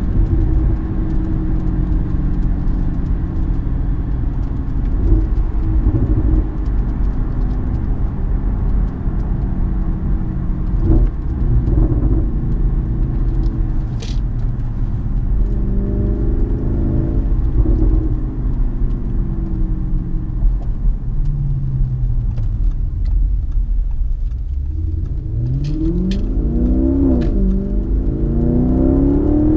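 2016 Audi S6's twin-turbo 4.0 V8, fitted with APR stage 2 downpipes and an AWE Touring exhaust, heard from inside the cabin. It cruises steadily, then the note falls as the car slows. In the last few seconds it accelerates, the pitch climbing and dropping back at each upshift.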